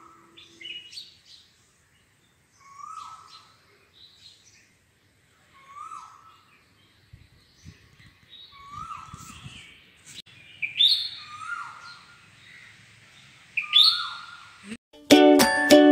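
Birds chirping and calling, with one short downward-sliding note repeated every two to three seconds under higher, busier chirps that grow louder toward the end. Plucked-string music cuts in near the end.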